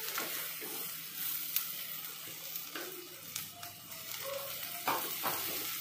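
Cut okra sizzling in hot oil in a clay pot, with a steady hiss and a few sharp knocks and scrapes of a wooden spatula against the pot as it is stirred.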